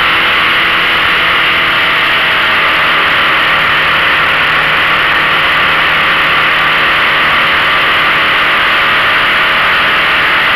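15 hp outboard motor running at a steady speed, its engine tone held even under a loud, steady hiss.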